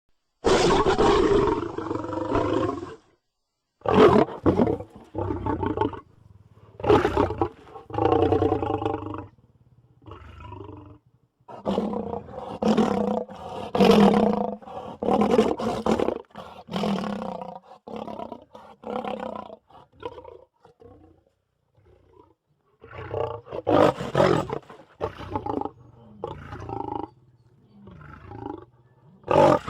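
Lion roaring in repeated bouts of long roars and shorter grunts, with short pauses between the bouts.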